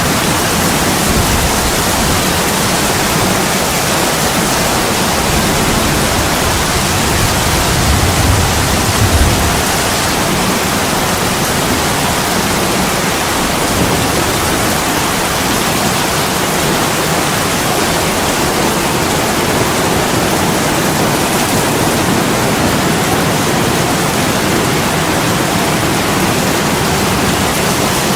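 Heavy rain pouring down on a window, a steady, even hiss. A low rumble under it during roughly the first nine seconds then fades out.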